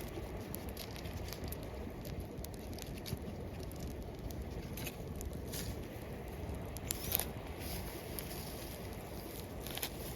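Campfire crackling: irregular sharp pops and ticks, the loudest about seven seconds in, over a steady low rushing background.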